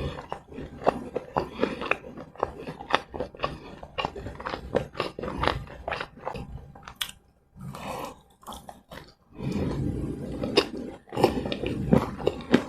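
Close-miked chewing and biting of fried snacks, with crisp crunches and wet mouth noises. The crunching is dense at first, pauses briefly past the middle, then comes back louder and thicker near the end.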